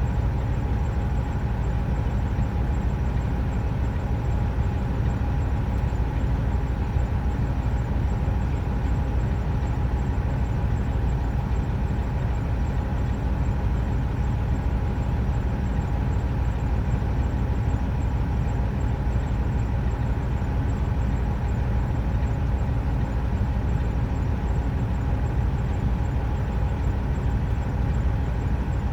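Steady, unchanging low rumble of a running truck, with a faint steady tone above it.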